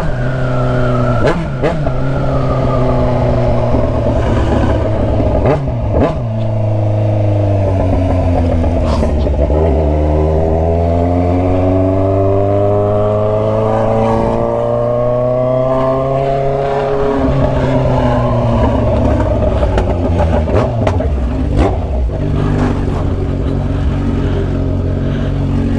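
Kawasaki Z900RS inline-four through an Atalla stainless-steel 4-into-1 header and 'canela seca' exhaust, heard from the bike while riding. The engine runs steadily, dips, then rises in pitch through one long acceleration midway before dropping back and settling.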